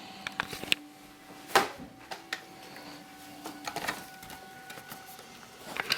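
Scattered clicks and knocks, the loudest about a second and a half in, over a faint steady hum.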